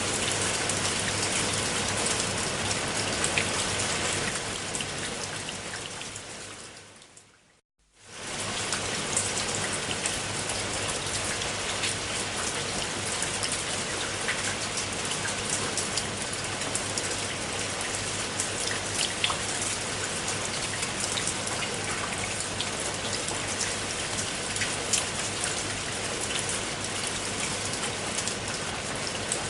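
Steady rain falling, an even hiss with scattered louder drops. A few seconds in it fades away, drops out to near silence for a moment about eight seconds in, then comes straight back and runs on evenly.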